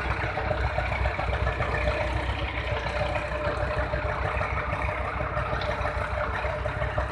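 Diesel tractor engine running at a steady speed, a dense, even run of low firing pulses.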